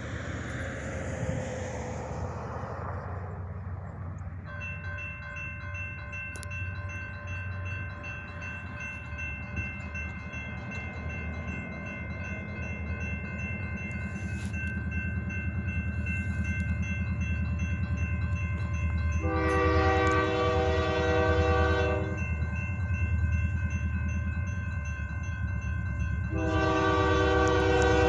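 Approaching freight train led by EMD SD70-series diesel locomotives: a low engine rumble growing louder, with a steady ringing tone from about four seconds in. The locomotive air horn sounds a blast of about three seconds near the two-thirds mark and starts a second blast near the end.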